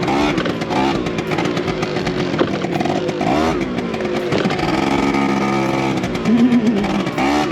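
Small motorbike engines revving up and down over and over, more than one running at once.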